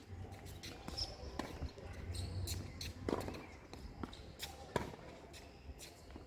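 Tennis ball impacts on racket and court during play: a series of sharp knocks, the strongest two about a second and a half apart near the middle.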